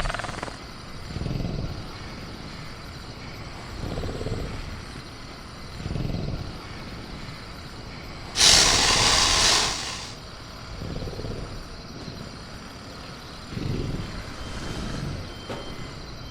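Sound-designed velociraptor cage ambience: soft low growls or breaths from the raptor come every two or three seconds over a steady background of jungle insects. About halfway through, a loud hiss starts suddenly and lasts about a second and a half.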